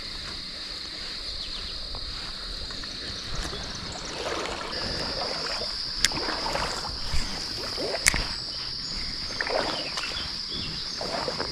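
Insects trilling steadily in a high, unbroken tone, over creek water sloshing and splashing at irregular moments. Two sharp clicks stand out, about six and eight seconds in.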